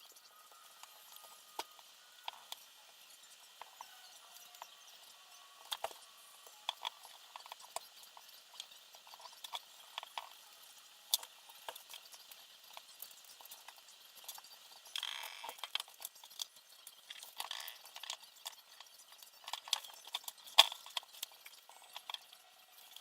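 Irregular light clicks and taps of small hard parts being handled during assembly, with a short rustle about fifteen seconds in.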